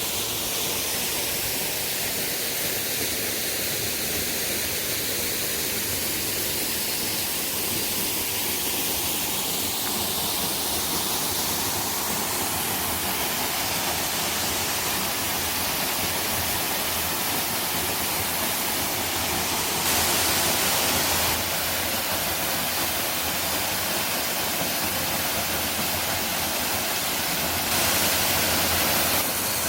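Waterfall: a steady rush of falling water, with two short, slightly louder stretches about two-thirds of the way through and near the end.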